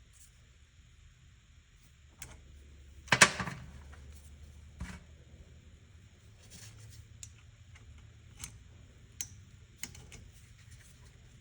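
Small clicks and taps from tools and carburetor parts being handled on a workbench, with one louder clatter about three seconds in and a knock a second and a half later.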